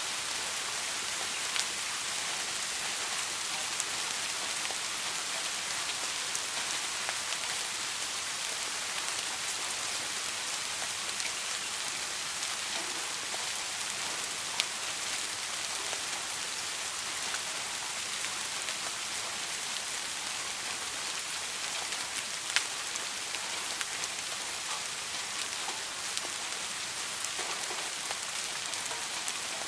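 Soft rain falling steadily, an even hiss of many small drops, with a few louder single drop ticks standing out about a second and a half in, around the middle and about two-thirds through.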